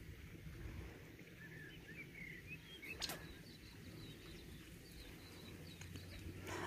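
Faint, short, high bird chirps in two runs over a low steady outdoor background, with one sharp click about three seconds in.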